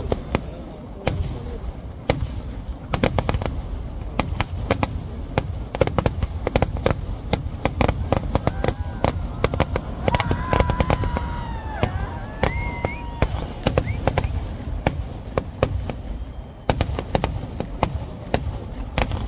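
Kerala temple-festival fireworks (vedikettu) going off in a dense, unbroken barrage of bangs and crackles, many per second and overlapping. About halfway through, a pitched wavering sound rises above the bangs for a few seconds.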